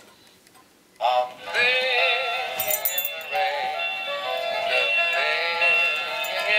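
Singing toy bird switched on, starting about a second in: it plays a song with a synthetic-sounding singing voice.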